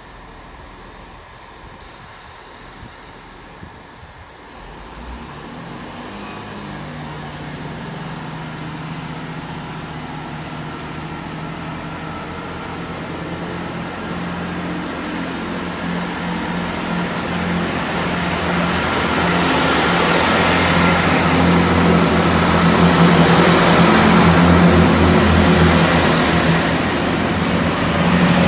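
Class 166 and Class 165 Turbo diesel multiple units, coupled together, pulling away. Their diesel engines power up about four seconds in, with a steady drone that grows steadily louder as the train accelerates, and a hiss builds in near the end.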